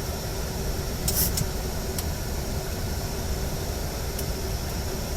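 Steady cockpit noise of a Boeing 737 in flight, airflow and air-conditioning hiss with a faint steady hum, broken by two short high-pitched bursts about a second in.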